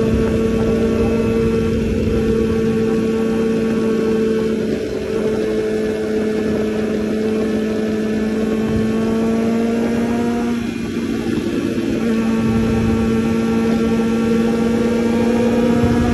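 Kawasaki ZX-14R's inline-four engine running steadily at cruising speed under the rider, heard from a phone on the dash, with wind rush. The engine note dips briefly twice, about five and eleven seconds in, and climbs slightly near the end.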